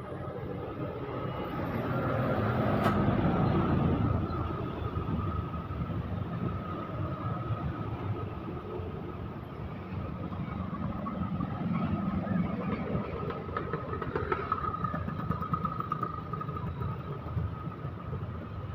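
Road traffic noise, with a vehicle passing close that swells to its loudest about two to four seconds in, then a steady rumble of traffic.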